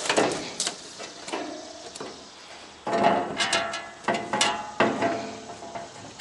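A series of sharp metal clanks and rattles, each ringing briefly, coming in clusters in the second half, as metal parts of an AC condenser unit are handled.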